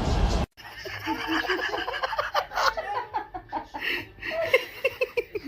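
A loud noisy sound cuts off about half a second in; then people laugh and giggle in short, choppy peals.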